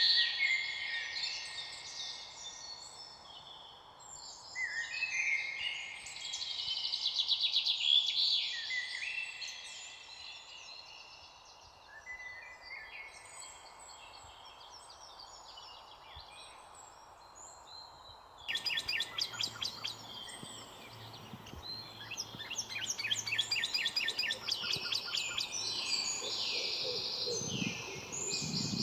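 Several songbirds singing together, with overlapping chirps, whistles and trills. About two-thirds of the way in the chorus changes abruptly to faster, rapidly repeated trilling.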